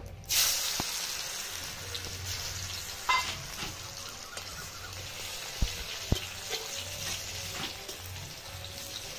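Chopped ginger and garlic frying in hot oil in a wok: a sudden sizzle about a third of a second in, then a steady sizzle as a metal spatula stirs, with a few knocks and a ringing clink of the spatula against the wok.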